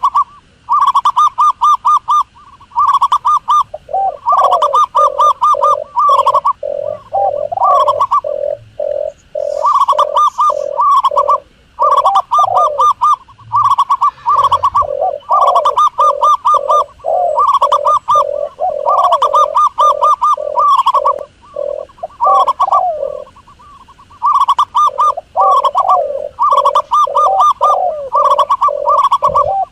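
Doves cooing: loud, quick runs of short notes, repeated over and over with brief pauses, in a higher and a lower series that often overlap.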